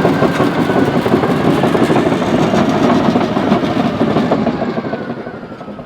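Heavy earthmoving machine running close by with a dense mechanical rumble and rattle, fading away over the last second or so.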